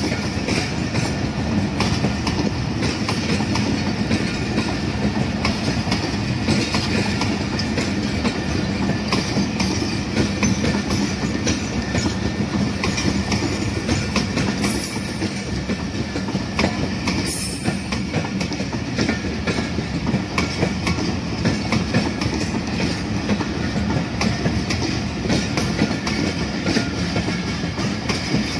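A Pakistan Railways express train's passenger coaches rolling past at speed, with a steady rumble and a continuous clickety-clack of wheels over the rail joints. Two short high-pitched bursts come near the middle.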